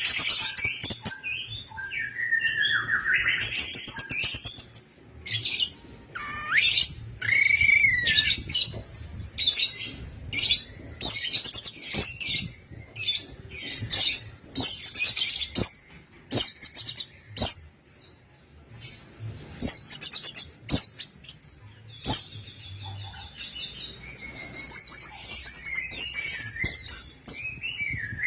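Orange-headed thrush (anis merah) singing: a long run of short, high phrases of very fast rattling notes, with a few lower slurred whistles, separated by brief pauses.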